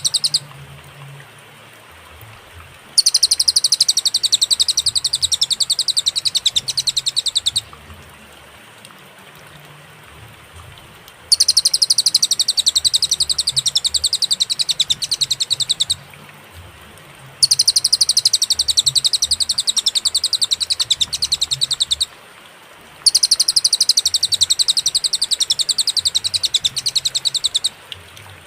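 Cililin bird song: rapid, high-pitched rattling trills in bouts of about four to five seconds, repeated four times with short pauses between.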